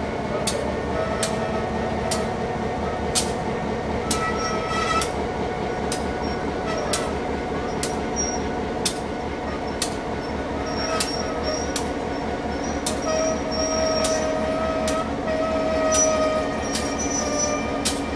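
Slow-moving train carrying the Norfolk & Western J-class 611 steam locomotive, unfired and rolling at walking pace: wheels squealing on and off, loudest about two-thirds of the way through, over a steady rumble and sharp clicks roughly every 0.7 seconds.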